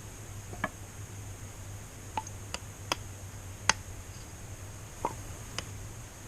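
A handful of short, sharp clicks and knocks, about seven spread irregularly over six seconds, the loudest a little past halfway. A steady high-pitched tone and a low hum run underneath.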